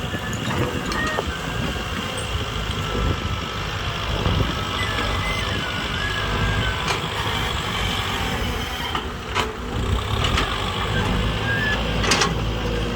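A motor running steadily with a low rumble and a faint, wavering high whine, with a few sharp clicks.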